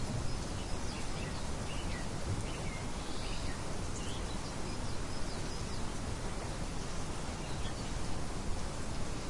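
Steady rain falling, with small songbirds chirping over it in short high calls, most of them in the first few seconds.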